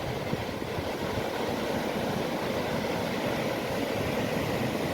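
Steady rumble and road noise of a car driving on a mountain road, heard from inside the cabin.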